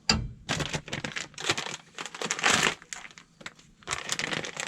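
Plastic packaging crinkling as it is handled, in a string of irregular bursts with short pauses between.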